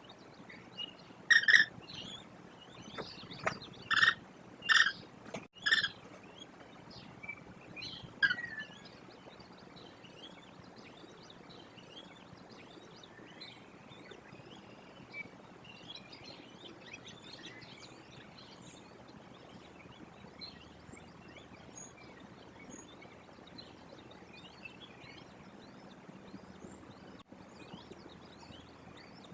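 A bird close to the microphone gives four short, loud calls in the first six seconds and a falling call a couple of seconds later. After that, songbirds chirp faintly and continuously in the background.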